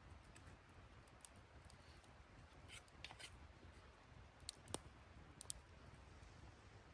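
Near silence with a few faint, scattered clicks; the sharpest comes a little past the middle.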